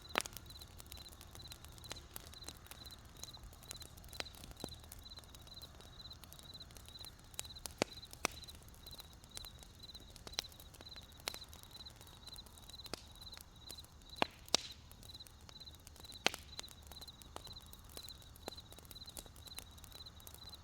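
Wood campfire crackling, with scattered sharp pops, the loudest near the start and about halfway through. Crickets chirp steadily in the background, a high pulsing trill repeating about twice a second.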